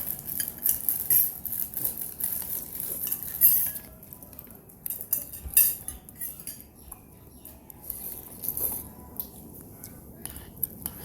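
Spoon and fork clinking and scraping against a bowl of instant noodle soup during eating. There is a quick run of clinks for the first four seconds, then scattered single clinks.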